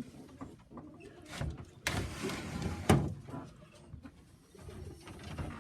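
Pigeons cooing low in a loft, with two sharp knocks about two and three seconds in.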